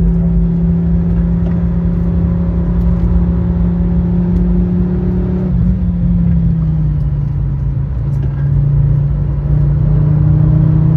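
Fiat Stilo Abarth's 2.4-litre 20-valve five-cylinder engine running under load at fairly steady revs. The engine note drops a little past halfway, then climbs again near the end.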